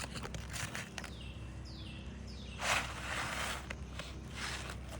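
Asphalt roofing shingle scraping and rustling as it is worked loose and pulled out from under the course above. The loudest scrape comes about two and a half seconds in and lasts about a second, with a shorter one near the end. Three short falling chirps come before it.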